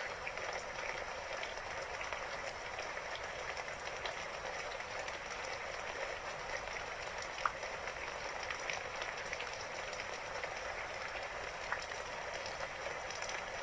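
Steady rain falling, an even hiss with a few single louder drops ticking out of it.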